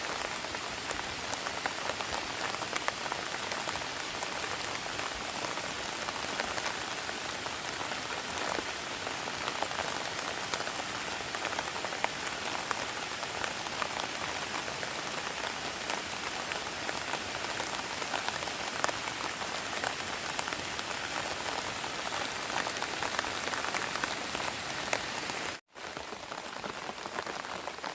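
Steady rain falling, a dense patter of drops. It cuts out for an instant about 25 seconds in, then carries on slightly quieter.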